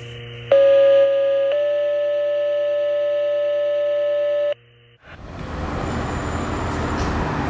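An electronic intro sting: a held, synthesized chord that changes pitch twice in sharp steps and cuts off abruptly about four and a half seconds in. About five seconds in, street noise with a vehicle engine's rumble fades up.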